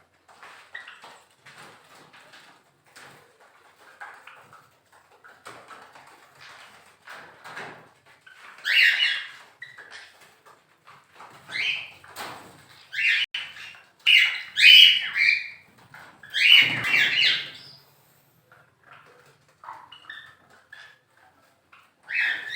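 Pet cage birds chirping, with a run of louder calls in the middle.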